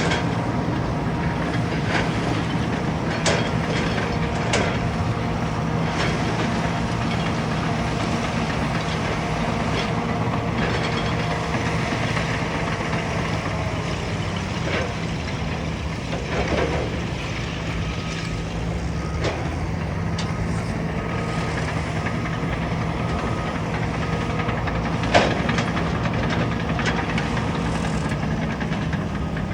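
Caterpillar bulldozer's diesel engine running steadily under work, with scattered metallic clanks and knocks and one sharper knock near the end.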